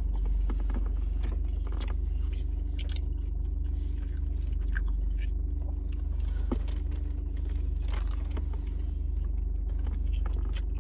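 Someone biting into and chewing a glazed donut: a run of irregular mouth clicks and chewing noises over a steady low rumble.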